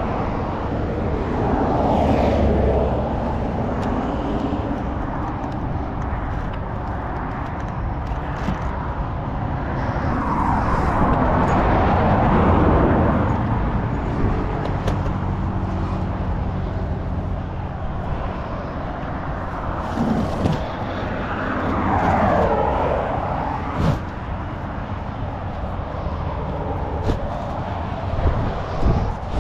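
Vehicle noise: a steady motor hum with several vehicles passing by, the loudest pass-bys about 2, 11 and 22 seconds in.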